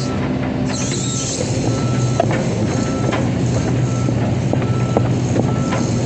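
Diesel engine of an excavator running steadily while its travel alarm beeps about once a second, with occasional metallic clanks.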